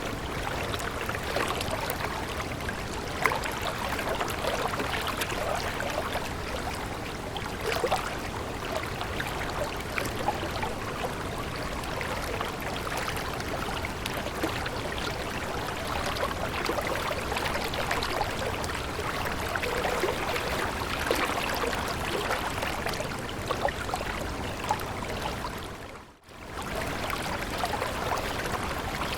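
Shallow stream water babbling and trickling steadily, with many small splashes. Near the end the sound drops out for a moment and comes straight back.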